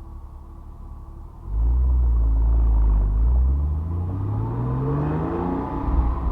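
Porsche 911 Carrera 997's 3.6-litre flat-six exhaust, heard close up. It runs quietly off the throttle for about a second and a half, then loudens suddenly as the throttle opens and the engine pulls up through the revs with a steadily rising pitch. Near the end the revs fall away, as for a manual upshift.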